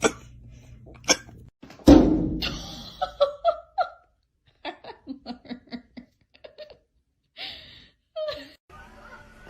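A loud thump about two seconds in, then a person laughing in a run of short, quick bursts.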